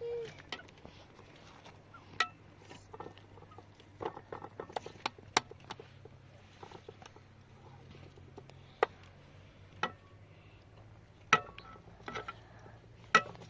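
Irregular light clicks and taps, with a few sharper single knocks spread apart and a quick cluster of them about four to five seconds in. At the very start, a cat's meow trails off.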